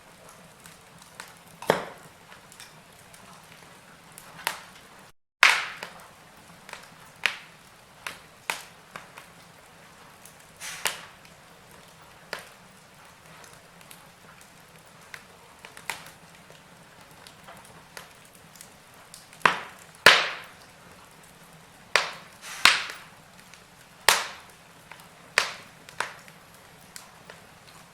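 Wood fire crackling in a fireplace: irregular sharp pops and snaps over a faint hiss, with a cluster of louder pops in the second half. The sound cuts out for an instant about five seconds in.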